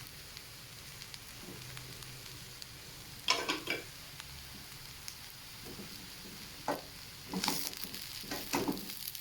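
Fried rice sizzling in a pan over a high flame while a spatula stirs it through, with a few scraping strokes against the pan about three seconds in and again near the end.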